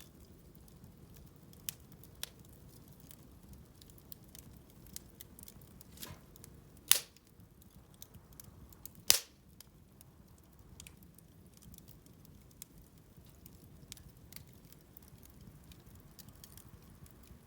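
Bonfire crackling, with scattered sharp snaps over a low steady hiss and two loud pops, about seven and nine seconds in.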